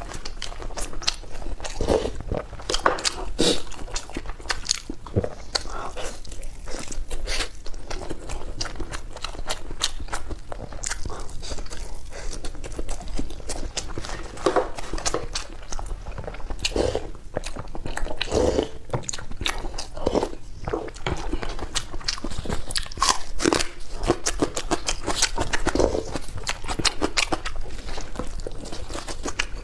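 Close-miked chewing of a person eating: a dense, irregular run of wet mouth clicks and smacks, picked up by a clip-on microphone. Near the end she bites into a soft steamed bun.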